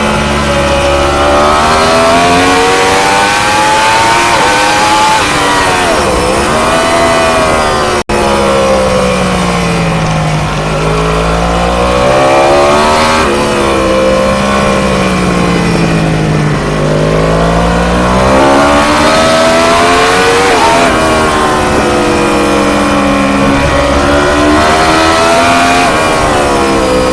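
Onboard sound of an ST1000-class 1000 cc race motorcycle at speed, the engine rising in pitch under acceleration and falling back several times as the rider works through gears and corners. The sound drops out for an instant about eight seconds in.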